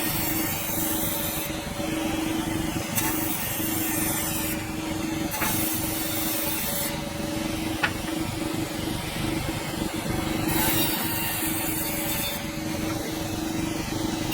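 Sawmill running steadily while its blade cuts through a dense hardwood log, a constant hum under a high hiss that comes and goes every second or two.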